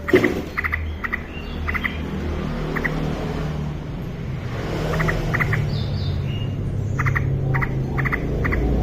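Yellow-vented bulbul (trucukan) calling actively: short, clipped notes in quick groups of two or three, repeated every second or so, over a steady low rumble.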